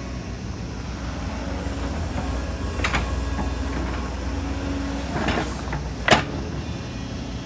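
Excavator's diesel engine running steadily under load, with three clanks from the machine at work; the last, about six seconds in, is the sharpest and loudest.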